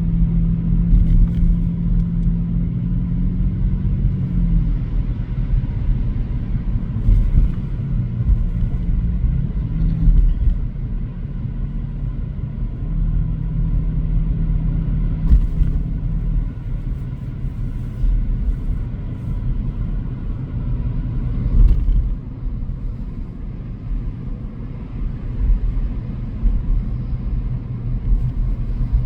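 A car driving: a steady low rumble of engine and road noise, with a faint hum that comes and goes and a few light knocks. The rumble eases about 22 seconds in.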